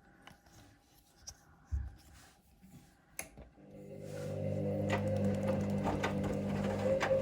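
Hoover Link washing machine's drum motor starting up about three and a half seconds in and then running steadily as it turns the drum during the main wash, with light ticking over the hum. Before that, a few faint clicks and a soft low thump during the pause between turns.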